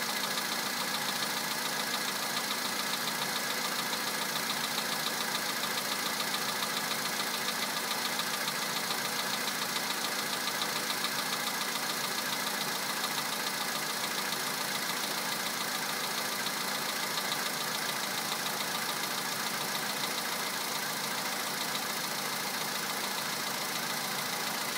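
2011 Volkswagen Polo sedan's 1.6-litre four-cylinder petrol engine idling cold, a couple of minutes after a start at +2 °C, with a steady, rapid knock over the running engine: an unpleasant cold-start knock that dies away once the engine has run a few minutes.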